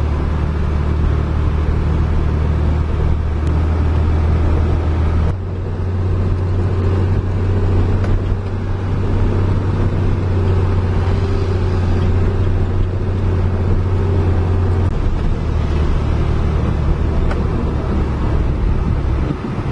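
Heavy diesel engine running steadily with a deep, even drone. It dips briefly about five seconds in and shifts slightly in tone around fifteen seconds.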